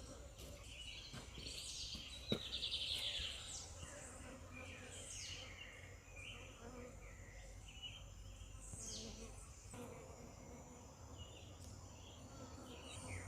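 Honeybees buzzing faintly, with several short, high bird calls falling in pitch and a sharp click a little over two seconds in.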